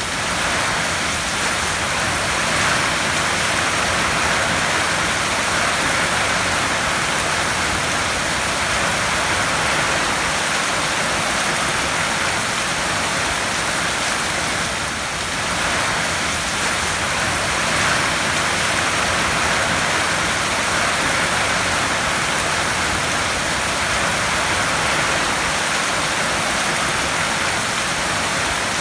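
Heavy rain drumming on a metal tin roof, a dense, steady hiss of drops.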